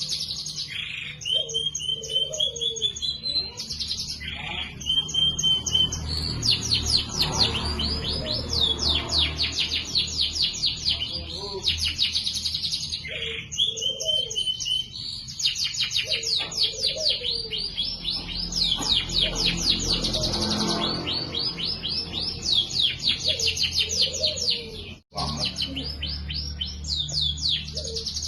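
Domestic canary singing continuously in long, fast trills of repeated chirps, with a momentary dropout near the end.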